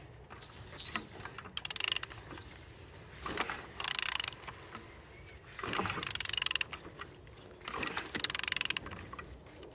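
Ratchet wrench clicking in repeated bursts about every two seconds as an Opel Z13DTH 1.3 diesel engine is turned over by hand at the crankshaft; the engine turns freely with compression on all cylinders.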